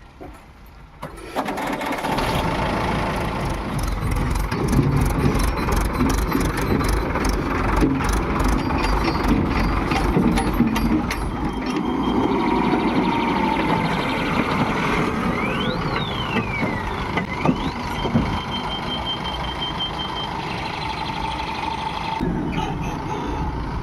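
JCB 3DX backhoe loader's diesel engine working under load, starting loud about a second in and running on steadily, with clicks and knocks over the first half.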